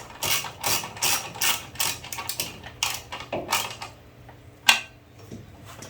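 Hand ratchet wrench being worked, a run of ratcheting strokes about two a second, then a pause and one sharp click near the end, as parts are bolted back onto the generator.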